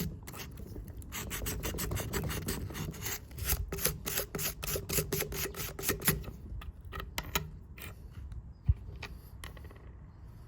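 Rapid back-and-forth scrubbing on a small steel part of Felco No. 2 pruning shears, rubbing off surface rust. The strokes come fast and close together for the first six seconds, then grow sparse, with a single dull knock near nine seconds.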